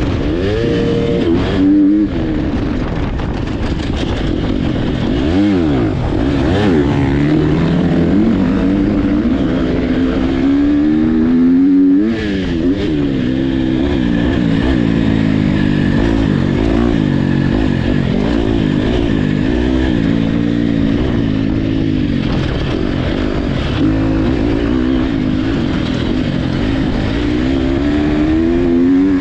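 Motocross dirt bike engines racing, revving up and dropping back again and again as the throttle is worked through the gears. At times more than one engine can be heard at different pitches.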